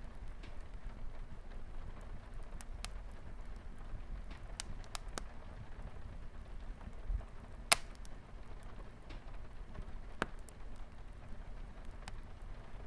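Wood fire crackling with scattered sharp pops, the loudest a little past halfway, over a steady low hiss of light rain.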